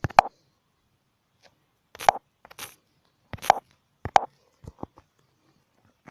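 A string of short, sharp clicks and knocks, irregularly spaced, with silence between them.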